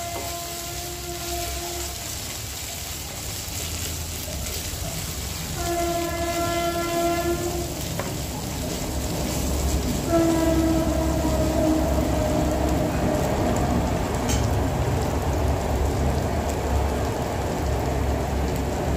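Onions sizzling as they fry in oil in a wok, stirred with a wooden spatula. A steady horn-like tone sounds three times, each held for two to four seconds. The third, about ten seconds in, is the loudest and sags slightly in pitch.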